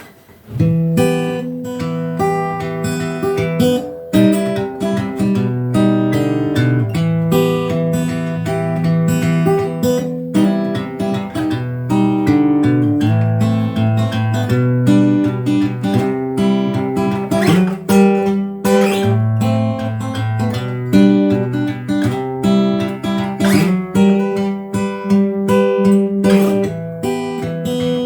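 Acoustic guitar played solo, a steady run of plucked notes and changing chords with a few sharp strums, in a bathroom's reverberant acoustics.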